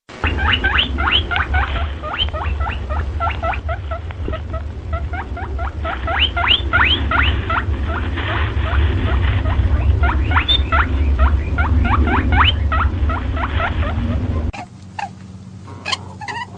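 An animal squeaking in a rapid run of short, rising squeaks, several a second, over a steady low hum; it cuts off suddenly near the end.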